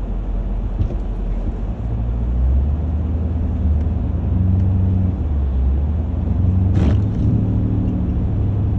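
Car engine running under load and revving as the car pulls on a rope tied to an ice-laden tree, its pitch rising about two seconds in. A brief sharp noise cuts across it about seven seconds in.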